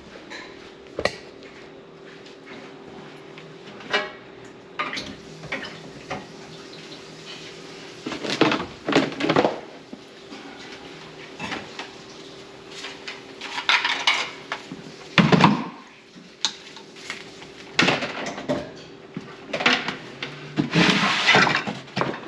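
Dishes and cutlery clattering in a kitchen sink: irregular knocks and scrapes with several louder bursts of clatter, over a steady low hum.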